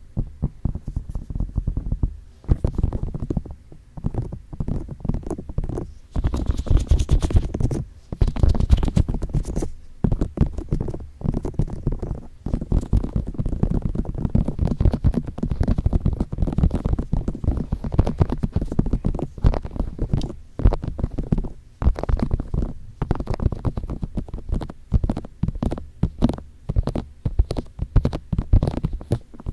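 Fingertips tapping and rubbing rapidly on the ears of a binaural microphone: a dense run of muffled, bass-heavy taps with a few short breaks.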